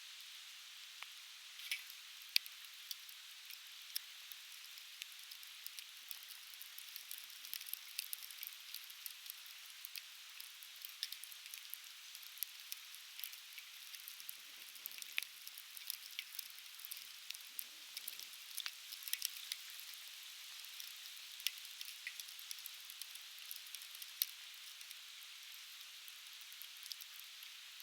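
Conifer firewood burning in a fire-pit campfire, crackling and popping irregularly with many sharp snaps, a few louder than the rest, over the steady rush of a river.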